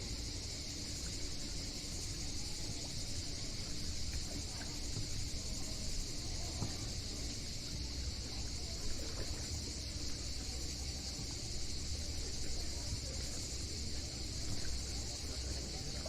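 A chorus of cicadas buzzing steadily and without a break, over a constant low rumble.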